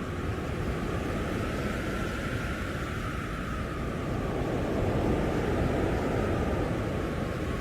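Blizzard wind blowing hard and steadily, with a howling whistle that holds one pitch after sliding slightly down. A gust swells a little about two-thirds of the way through.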